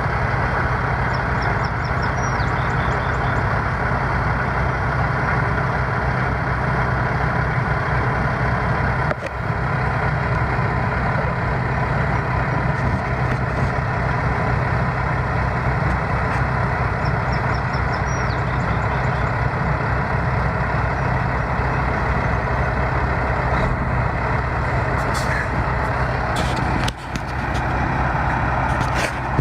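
Heavy diesel engine running steadily with a constant low drone. The sound drops out briefly about a third of the way in and again near the end.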